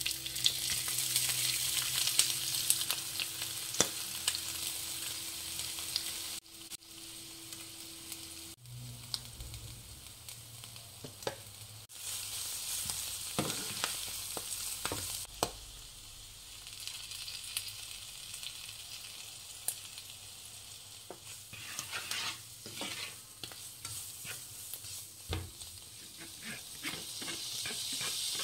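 Shredded cooked chicken sizzling in hot oil in a nonstick pan while a spatula scrapes and taps it around. The sizzle is loudest at first, dies down in the middle and swells again near the end.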